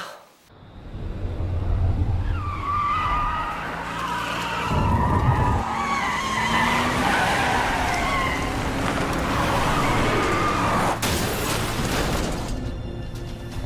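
A car speeding with its tyres skidding and squealing, over dramatic film music. A heavier rumble swells about five seconds in, and a sudden sharp burst of noise comes near the end.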